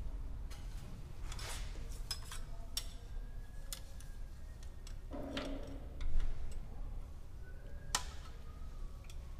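Irregular metallic clicks and clinks of hand tools on metal during work on the engine's cylinder head bolts, with one heavier clunk about six seconds in.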